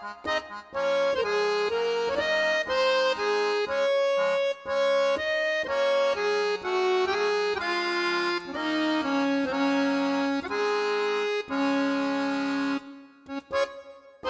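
Background music: a melody moving in short stepped notes over held chords, ending on a long held chord a little before the end, then a brief pause before the tune picks up again.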